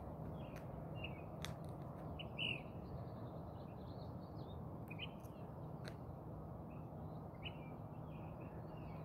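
Wild birds chirping in short, scattered calls, the loudest about two and a half seconds in, over a steady low background noise with a few faint clicks.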